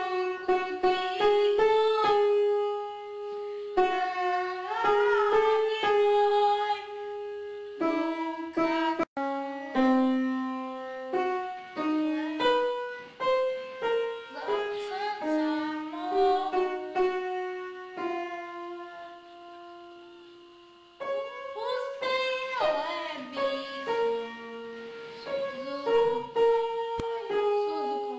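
Keyboard playing a song melody over chords. The notes change steadily, with one brief break and a softer, fading passage about two-thirds of the way through.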